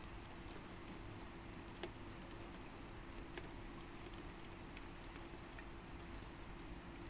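Light rain during a thunderstorm: a faint steady hiss with scattered drops ticking sharply on a hard surface, two of them louder, about two and three and a half seconds in. A faint steady hum runs underneath; no thunder.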